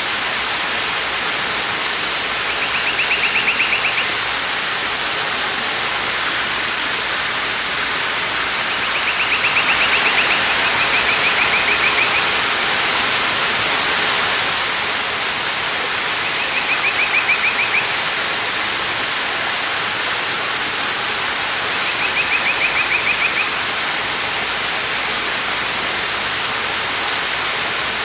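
A waterfall running with a steady, even rush. A short, rapid high trill, each lasting about a second, comes over it about every six seconds.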